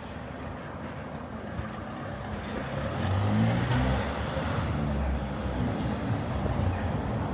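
Street traffic, with a motor vehicle's engine passing close and growing louder about three seconds in, then easing off.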